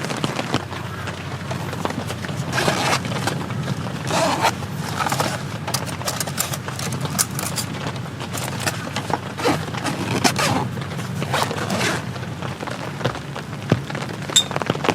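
Steady rain falling, with many irregular louder drips and taps over it.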